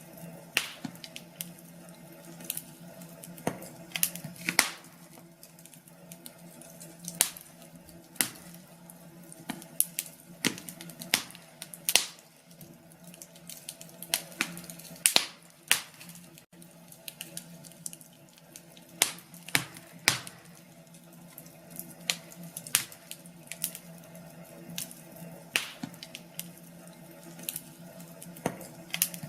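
Wood fire crackling in a fireplace, with irregular sharp pops and snaps, several every few seconds, over a faint steady hum.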